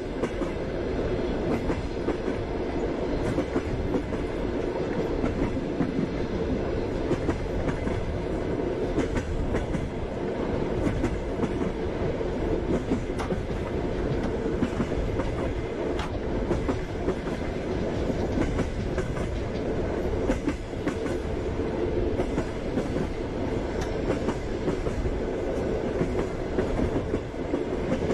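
Passenger train running: a steady rumble of the carriage with the wheels knocking and clicking over the rail joints.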